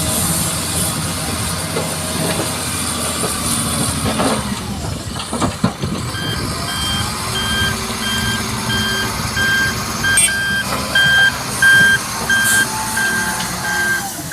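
Heavy truck running, with a few knocks about five seconds in; then a reversing alarm starts beeping steadily, about one and a half beeps a second, as the truck backs up.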